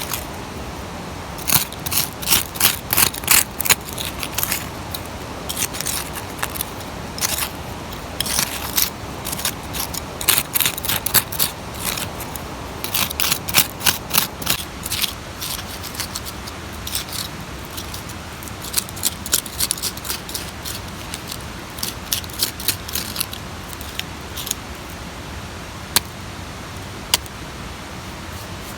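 Runs of quick, sharp scraping strikes by hand, several a second, then two single clicks near the end, over a steady rushing background of a stream.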